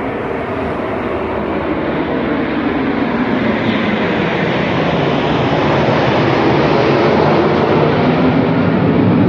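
Aircraft flying past, a steady engine noise that grows gradually louder as it approaches.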